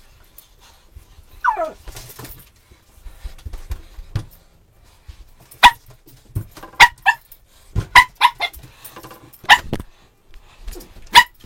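A small dog barking in short, sharp, high yaps, about eight of them in the second half, with a single falling whine about a second and a half in.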